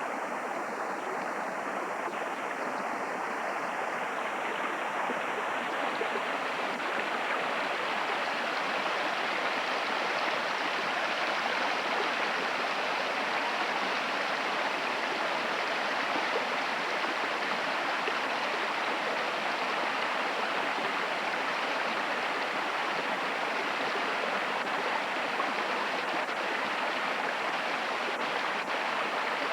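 Running water of a stream, a steady even rush of water.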